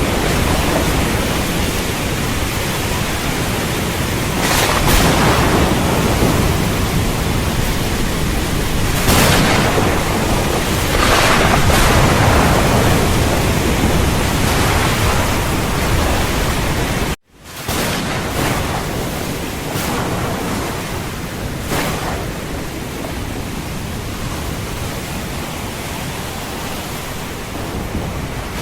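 Heavy rain with rumbling thunder, the downpour swelling in surges every few seconds. About two-thirds through, the sound cuts out for a split second and comes back slightly duller, like a splice in the recording.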